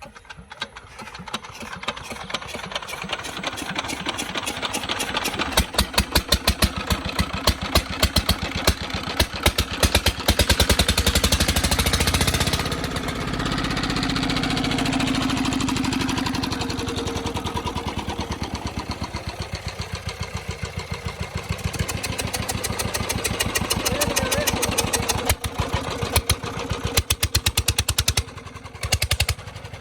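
Tubewell diesel engine being turned over by a solar-powered motor and running, chugging in even beats that quicken over the first several seconds and then hold steady; near the end the beats slow and break into separate thumps.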